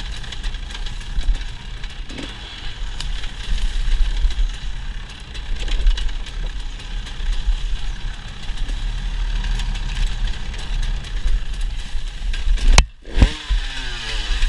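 Dirt bike engine running as the bike is ridden. Near the end there is a sharp knock, the engine note drops for a moment, then it climbs again.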